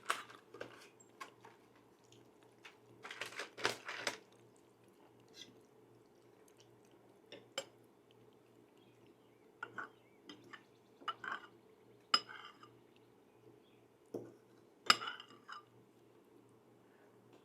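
Cutlery clinking and scraping against a plate while eating, in scattered taps and short clusters a second or more apart, over a faint steady hum.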